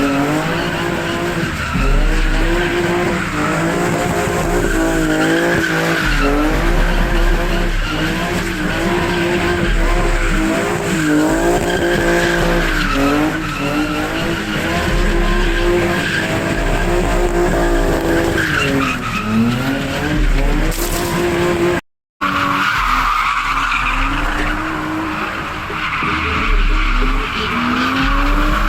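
A car drifting, with its engine revving up and down in quick repeated swings over continuous tyre squeal. The sound cuts out for an instant about three-quarters of the way through, then the tyre squeal carries on.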